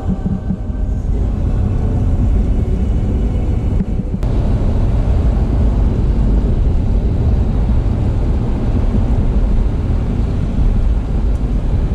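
Car driving on the road, a steady low rumble of tyre and engine noise.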